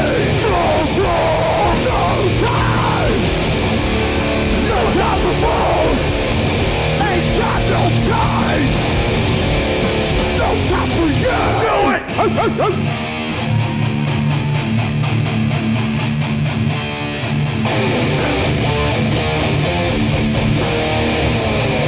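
Hardcore punk band playing live and loud: distorted guitars, bass and drums. About twelve seconds in there is a brief sharp break, then a heavy low riff with regular drum and cymbal hits.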